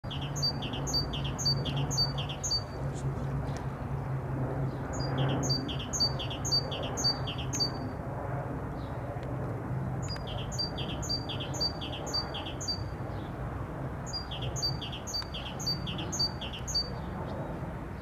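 A songbird singing in four short bouts, each a run of five or six quick repeated notes at about two a second, over a low steady hum.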